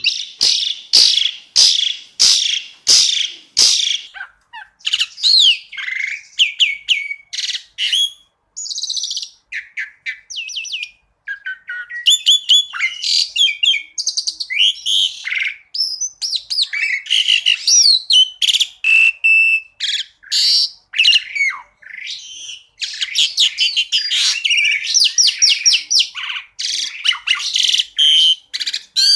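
Asian pied starling (jalak suren) singing a long, varied song: sharp repeated notes at first, then a run of mixed whistles, chatter and fast trills.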